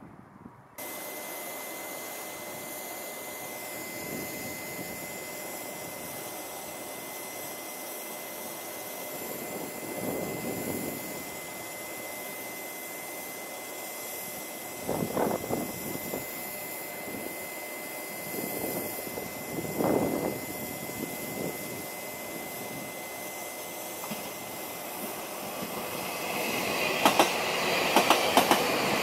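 Railway station track noise with a steady high tone and a few short swells of rumble. Near the end a passenger train comes past close by, louder and louder, its wheels clicking rapidly over the rail joints.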